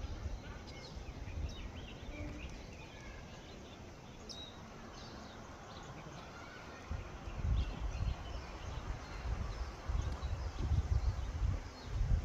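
Forest birds giving short, scattered chirps and call notes, several voices overlapping. Gusts of wind rumble on the microphone come in from about halfway through.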